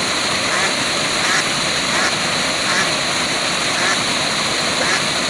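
Waterfall rushing steadily, with short animal calls repeating over it every half second to second.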